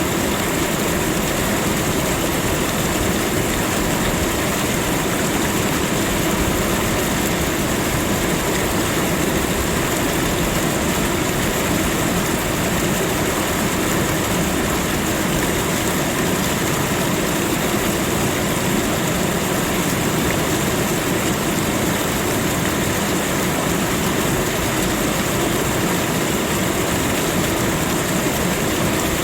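Waterfall: falling water making a steady, even rushing noise with no breaks or changes.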